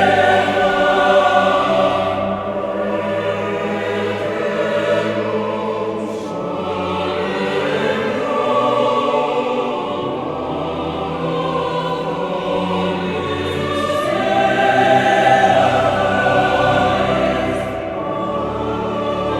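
Background music: a choir singing slow, sustained chords, swelling at about a second in and again at about fifteen seconds in.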